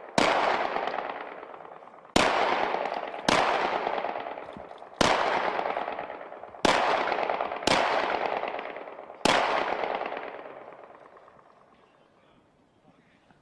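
Seven single rifle shots from HK G36 5.56 mm assault rifles, fired one at a time at uneven intervals over about nine seconds, each followed by a long echo that fades away. The shooting stops about ten seconds in.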